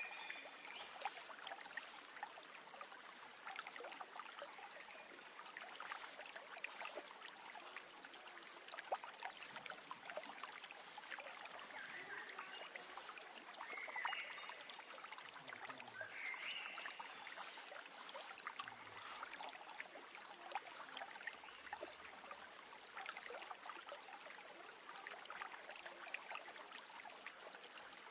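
Running stream water trickling steadily, with birds chirping now and then.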